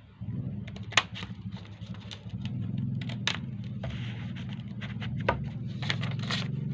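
A sheet of paper crackling and crinkling as it is folded and creased by hand, in a series of sharp crackles. Under it is a steady low hum that starts just after the beginning.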